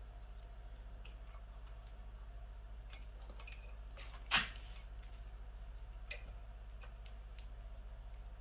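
A few small clicks from wiring harness plugs being handled and fitted, the sharpest about four seconds in, over a steady low hum.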